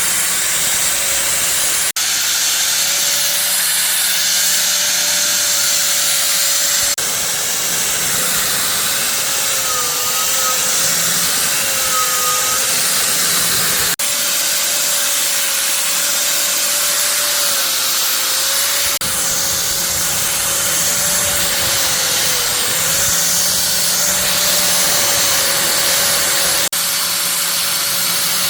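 A machine running steadily with a loud hiss and a motor tone that dips in pitch now and then, broken by several abrupt cuts.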